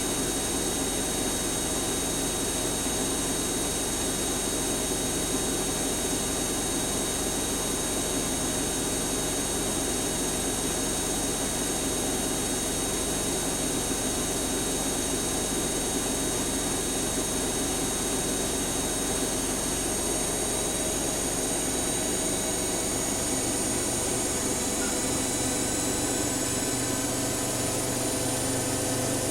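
Siemens Siwamat iQ 716 washing machine spinning at speed: a steady motor and drum whine with a rushing noise underneath. The pitch of the whine shifts slightly about three-quarters of the way through.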